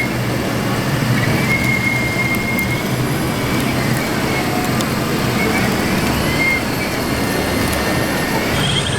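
Large-scale RC construction models running, a steady mechanical noise with faint high whines from their electric drive and hydraulic pumps that hold and glide a little in pitch.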